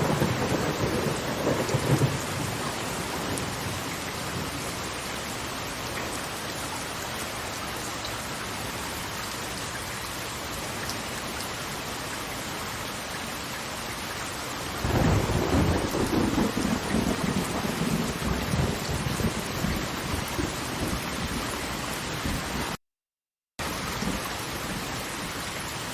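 Steady hiss of rushing water with two rolls of thunder: one fading out in the first two seconds, and a longer one starting about halfway through and dying away over some six seconds. The sound drops out completely for under a second near the end.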